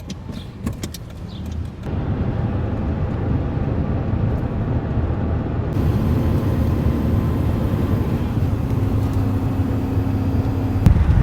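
A car on the move, heard from inside: a few light clicks, then from about two seconds in a steady low rumble of engine and road noise.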